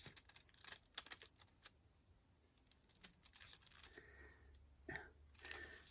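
Faint, scattered light clicks and taps of small objects being handled, with near silence between them.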